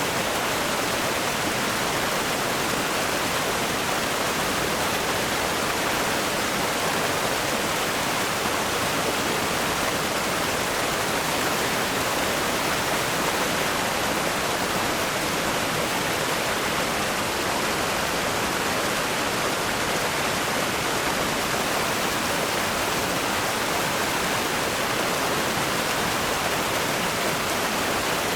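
River rapids rushing over rocks: a steady, unbroken roar of fast-flowing water.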